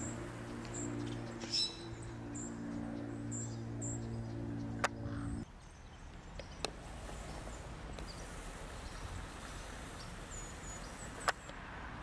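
Faint, short, high-pitched bird chirps scattered through, over a low steady hum that cuts off suddenly about five seconds in, with a few sharp single clicks.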